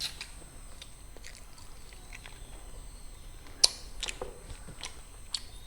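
Eating sounds of a person chewing mutton curry with gravy: scattered short clicks and smacks, the sharpest about three and a half seconds in.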